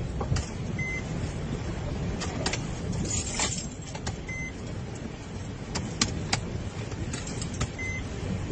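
A moving vehicle's steady low rumble with scattered sharp clicks, and a short electronic beep that repeats three times, about every three and a half seconds.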